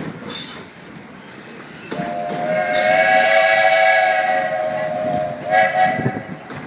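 Narrow-gauge steam locomotive's whistle: one long blast of about three seconds, then a short blast, over the train's running noise on the rails.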